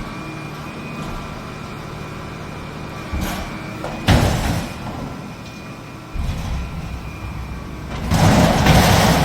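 Garbage truck's diesel engine running steadily, with a sharp bang a little after four seconds in and a loud rush of noise near the end.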